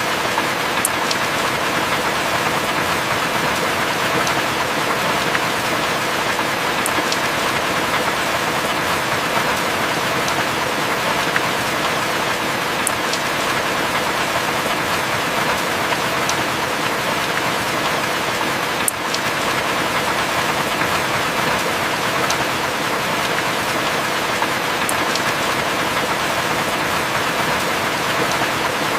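Heavy rain falling steadily, with a sharp drop tick every few seconds.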